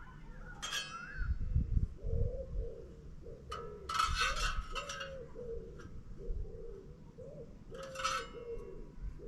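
A pigeon cooing in a repeated low phrase of short notes, broken by a few short, bright sounds about a second in, around four seconds in and near the end. Wind rumbles on the microphone throughout.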